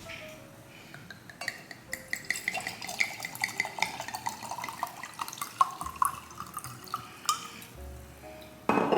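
Red wine glugging out of a bottle into a wine glass, the gurgles coming in quick succession and rising in pitch as the glass fills. A short knock near the end.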